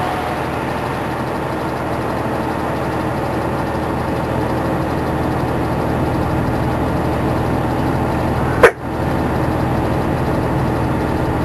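Fire engine's engine running steadily, heard from inside the cab, with one sharp click a little under nine seconds in.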